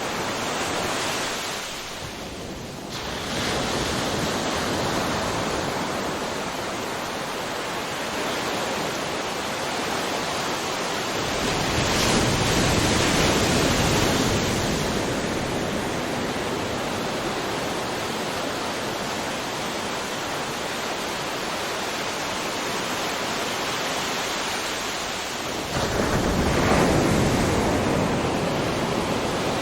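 Ocean surf: a continuous wash of waves, with larger waves breaking about twelve seconds in and again near the end.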